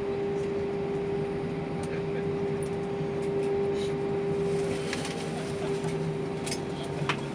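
Airbus A320 cabin after arrival with the seatbelt sign off: a steady hum with one constant tone over air-conditioning hiss, and a few light clicks in the second half.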